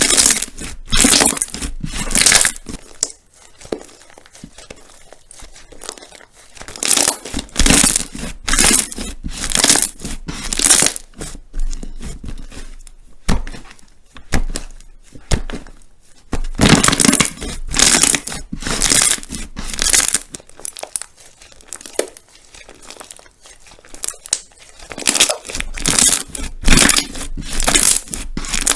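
Slime being squeezed and worked by hand, giving loud crackling, crunching squishes about once a second in runs of several, with quieter pauses between the runs.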